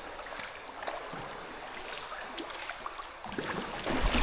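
Water splashing and dripping around a kayak being paddled, over a steady watery hiss, with small scattered drips. The splashing grows louder near the end.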